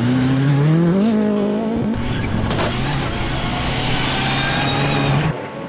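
Rally car engine pulling hard, its pitch climbing in steps as it shifts up through the gears, then holding at steady revs with loud tyre noise on gravel. The sound cuts off suddenly near the end.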